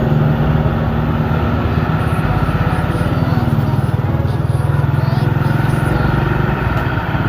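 A loaded sugarcane truck's engine running steadily with a low, rapid pulsing beat.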